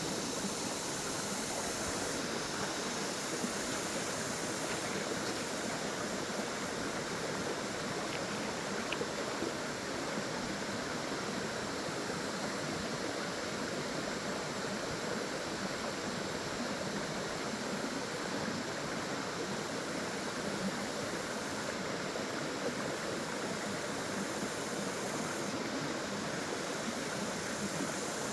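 Steady rushing and splashing of flowing water from a small waterfall, constant and even.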